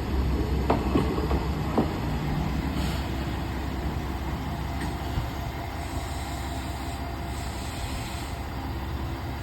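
Isumi Railway diesel railcar pulling into the station: a few sharp wheel clacks over rail joints in the first two seconds, then a steady engine hum as it comes to a stand, with a faint hiss a little past the middle.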